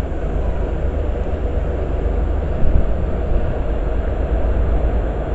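Class 67 diesel locomotive with its two-stroke EMD V12 engine running as it draws a train into the platform: a steady low rumble that grows slightly louder about halfway through.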